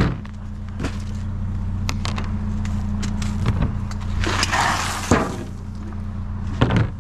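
A vehicle engine idling steadily, with scattered knocks and clatters from handling a metal tin. About four seconds in comes a short rustling, rattling burst, as if something is shaken or poured out.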